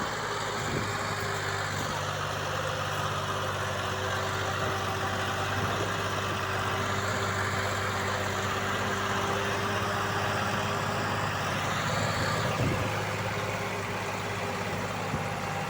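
Heavy diesel engine running steadily at idle, with one brief knock near the end.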